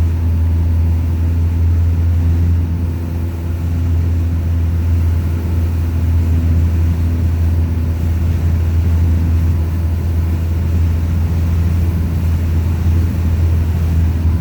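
Light aircraft's piston engine and propeller running steadily in flight, a constant low drone heard from inside the cockpit.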